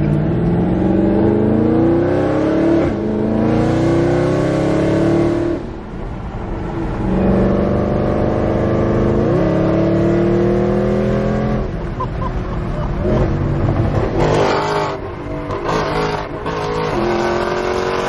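A car engine accelerating hard through the gears: its pitch climbs and drops back at each upshift, about every three seconds, then runs unevenly with shorter blips before settling to a steadier note near the end.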